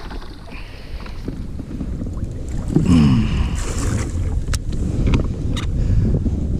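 Wind buffeting the microphone on a kayak: a low rumble that grows louder, with a brief sliding tone about three seconds in and a few sharp clicks or knocks.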